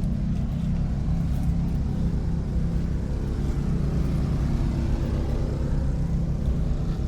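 A motor vehicle's engine running at a steady speed: a low, even rumble.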